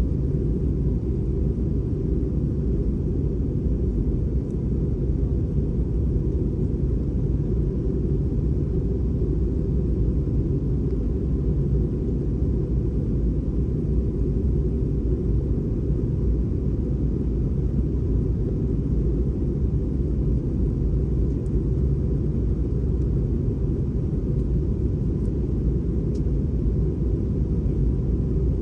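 Airbus A320 cabin noise: a steady, low rumble of engine and airflow with a faint steady tone above it, unchanging throughout.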